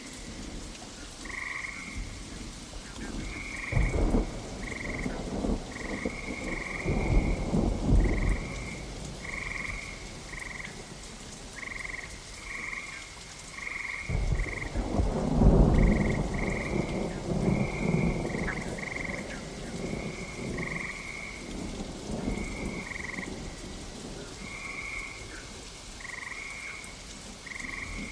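Steady rain with thunder rumbling about four seconds in, again around seven to eight seconds, and in a bigger roll from about fourteen seconds. Frogs croak throughout in short calls repeated every second or so.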